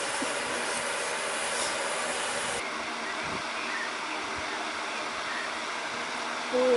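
An insect droning with a steady, even hiss-like noise.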